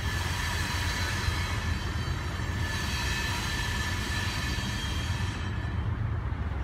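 Coal train hopper cars rolling past with a steady low rumble. Thin high-pitched wheel squeal rides over it and fades near the end.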